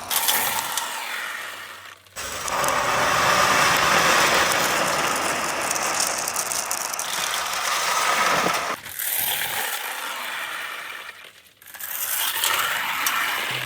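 Marbles rolling and clattering down a wooden marble-run track, a steady dense rattle of many small clicks. It breaks off abruptly for a moment three times, about 2, 9 and 11.5 seconds in.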